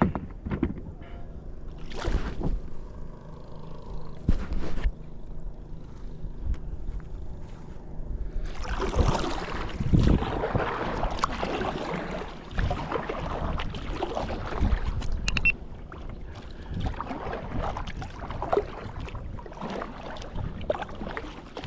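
Jet ski engine running steadily in the background, a low hum that goes on throughout. Two sharp knocks come in the first five seconds, and loud bursts of noise follow from about eight seconds in.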